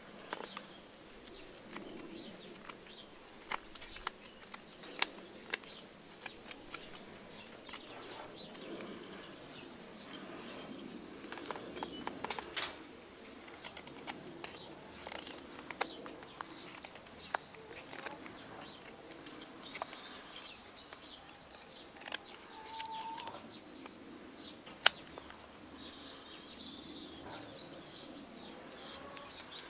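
Knife carving a spoon from seasoned alder wood: irregular sharp clicks and short scrapes of the blade cutting, with garden birds chirping now and then.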